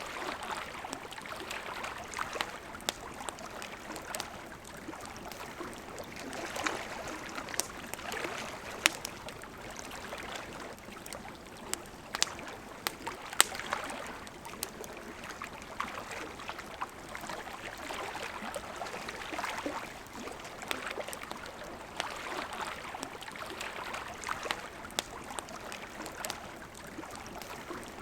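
Wood campfire crackling, with scattered sharp pops, a couple of them louder, over the steady rush of a river.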